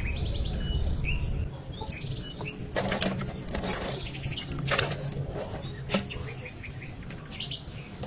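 Small birds chirping repeatedly, with short trilled calls. A low rumble fades out about a second and a half in, and a few short noisy bursts stand out a few seconds in.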